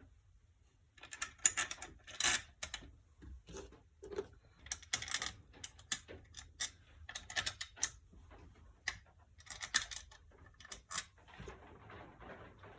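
Irregular metallic clicks and clinks of bolts, a small bracket and hand tools being handled and fitted while bolting the side case cover onto an ATV engine.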